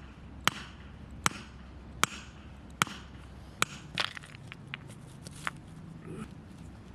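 Steady chopping: five sharp strokes evenly spaced less than a second apart, then lighter, irregular taps.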